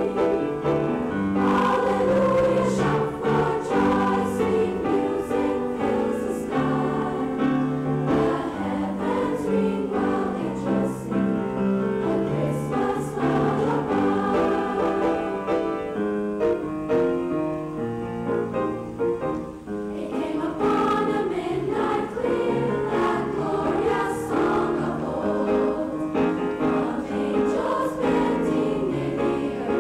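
Junior high women's choir singing held notes together, the chords changing every second or so.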